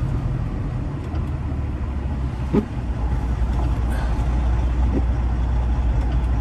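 Semi-truck diesel engine running with a steady low drone, with road noise over it, growing a little louder about halfway through as the truck pulls.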